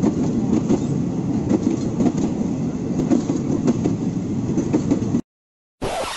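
Train running on rails: a steady rumble with rapid clicking of the wheels over the track, which cuts off suddenly about five seconds in. A brief, brighter burst of noise follows near the end.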